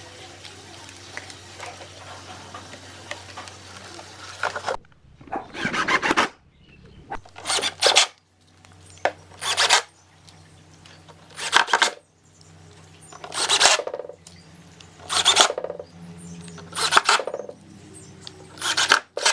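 A steady low hum for the first few seconds, then about eight loud rasping strokes, roughly one every two seconds, like something being rubbed or scraped against a hard surface.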